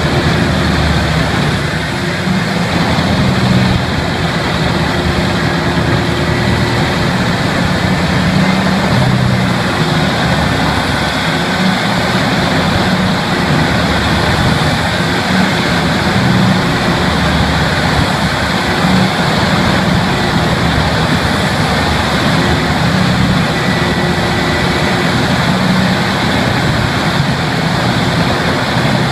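Large engine-driven machine running steadily under load, a continuous loud mechanical din with a low engine hum.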